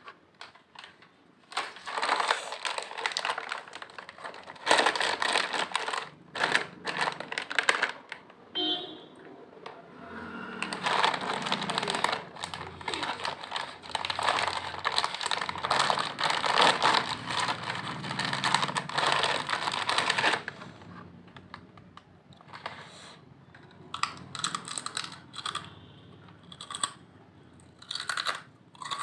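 Lay's potato chips crunching as they are bitten and chewed close to the microphone: dense runs of crisp cracks, a lull around 8 to 10 seconds in, and sparser crunches near the end, with some crinkling of the chip bag.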